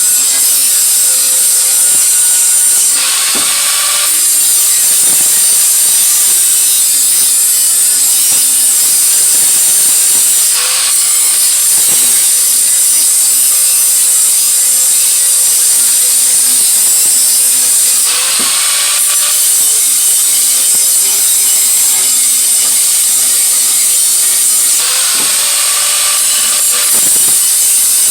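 Power tool grinding on the steel exhaust head pipe, a steady high hiss that eases off briefly about every seven seconds as the tool is lifted and its motor pitch shifts.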